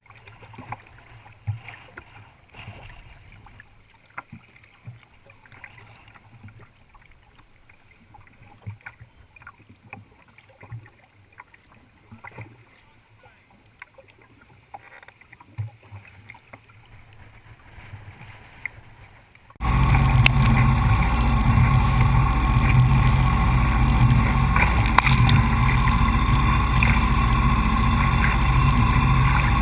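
A quiet stretch with scattered short knocks and taps, then about two-thirds of the way through a jet ski engine cuts in suddenly and runs loud and steady.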